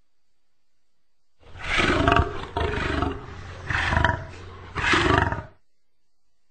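Lion roaring: four loud roars in quick succession, starting about a second and a half in.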